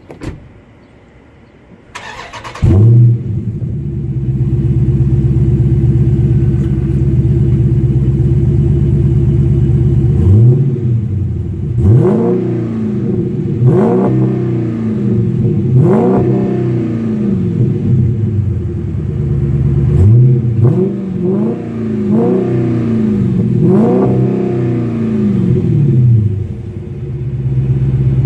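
2016 Dodge Charger Scat Pack's 6.4-litre HEMI V8 through an aftermarket exhaust. About two seconds in it starts with a loud flare and settles into a steady idle. From about ten seconds in it is revved in a series of quick throttle blips, each rising and falling in pitch, then drops back to idle near the end.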